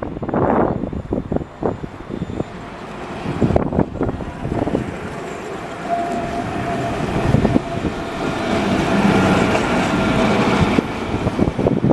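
A rail vehicle running past on the track: a quick series of wheel clicks over rail joints, then a steady running noise with a held whine that grows louder before dropping away near the end.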